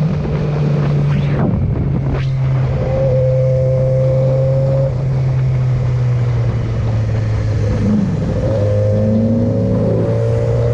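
Motor vehicle engine, most likely a motorcycle's, running at a steady pitch, with a brief break and shift in pitch about two seconds in.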